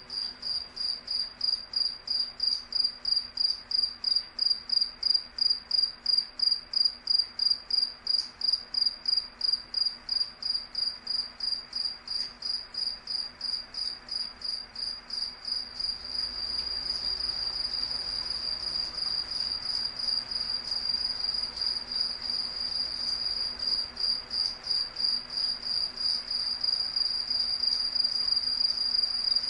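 Cricket chirping on one high, steady pitch at about three chirps a second, the chirps running together into an almost unbroken trill about halfway through.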